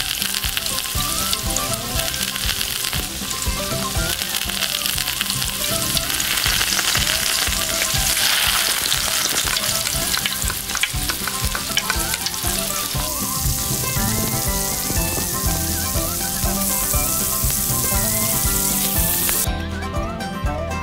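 Food frying in hot oil in a miniature pan: a steady sizzle that stops near the end, over light background music.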